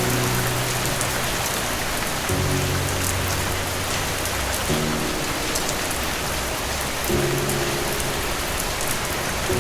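Steady rain, with soft low chords of calm background music starting anew about every two and a half seconds.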